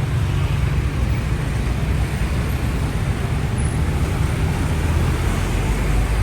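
Steady road noise from riding a motorcycle in city traffic: engine and tyre noise under a heavy low rumble.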